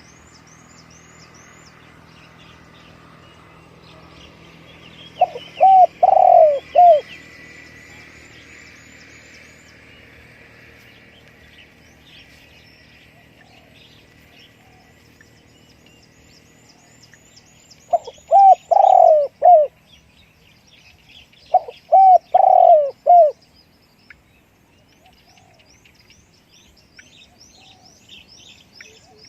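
Spotted dove cooing: three phrases of several notes each, about 5, 18 and 22 seconds in. Small birds chirp rapidly and high in the background.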